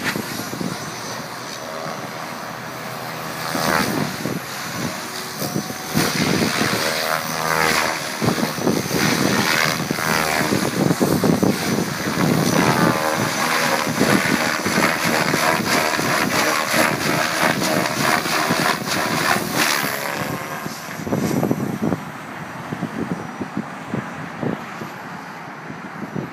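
Electric Logo 500 radio-controlled helicopter in flight, its rotor whirring and its motor whining. The pitch sweeps up and down again and again as it is flown through hard manoeuvres. It is loudest through the middle and falls away near the end.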